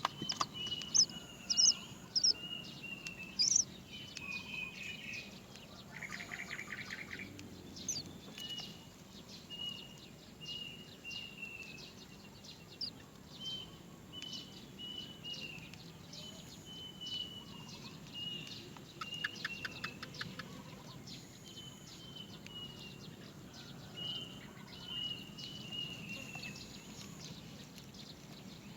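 Great myna chick begging for food: a long run of short, high calls, about one a second, with a few louder, sharper calls in the first few seconds and two brief buzzy rattles.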